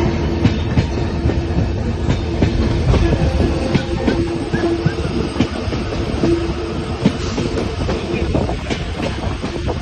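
Train running along the track, heard from aboard: a steady rumble with the wheels clattering and clicking over the rails.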